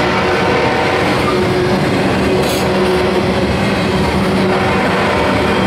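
Double-stack intermodal well cars of a Union Pacific freight train rolling past close by: a loud, steady rumble of steel wheels on the rails, with a few faint steady tones over it. A brief high-pitched hiss comes about halfway through.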